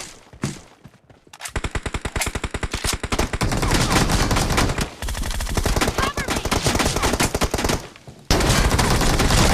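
Automatic gunfire in a shooter video game: long bursts of rapid shots starting about a second and a half in, a short lull near the end, then louder fire.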